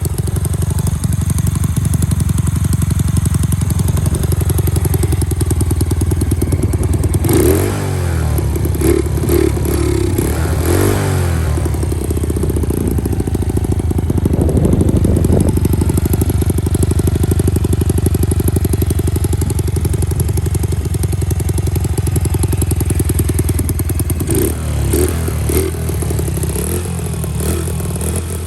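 Honda Monkey R's small single-cylinder four-stroke engine running through a Yoshimura aftermarket muffler. It idles steadily and is blipped up in revs a few times: a third of the way in, again a little later, and once more near the end.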